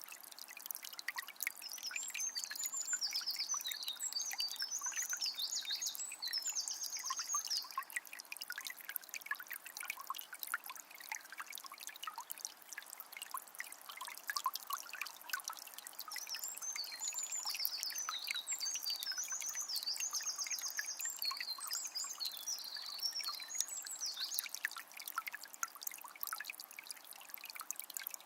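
A small spring trickling and splashing steadily, with many small drips and plinks. A songbird sings two long runs of rapid, high trilled phrases, one starting about a second in and another around the middle.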